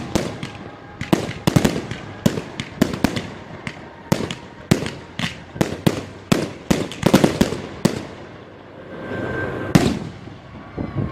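Fireworks display going off: many loud, sharp bangs and crackles in quick, irregular clusters, then thinning out near the end to a single bang.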